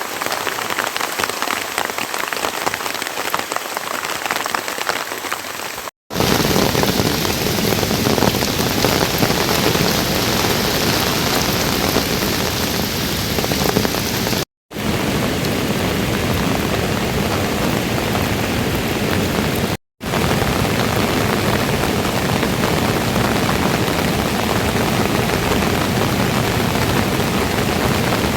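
Steady rain falling. Several stretches are joined by brief silent breaks: the sound drops out for a moment about 6, 14 and 20 seconds in, and is heavier and fuller after the first break.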